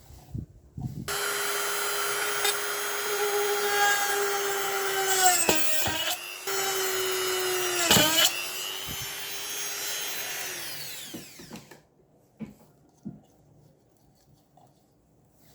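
Small electric motor spinning up about a second in and running at a steady high whine. Its pitch sags and it cuts out briefly around six seconds, then restarts. It dips again sharply near eight seconds and winds down with a falling pitch near eleven seconds.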